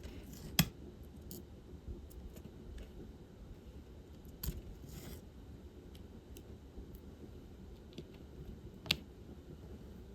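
Small plastic clicks and taps from diamond painting: the drill pen picking up and pressing resin drills and the beads rattling in a plastic tray. Two sharper clicks stand out, about half a second in and near the end, with a brief scratchy shuffle in the middle over a low steady room hum.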